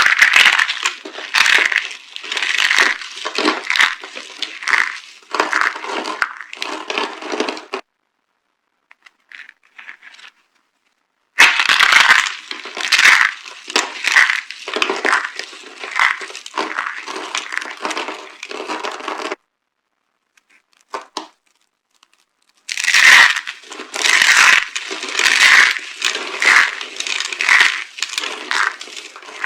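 Dry soap being crushed, with dense crunching and crackling made of many sharp cracks. It comes in three runs of several seconds each, with dead silence between them.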